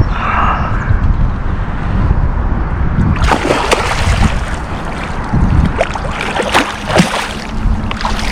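Water splashing and sloshing against the kayak, with irregular splashes from about three seconds in as the hooked blue catfish thrashes at the surface beside the boat, over a steady low rumble.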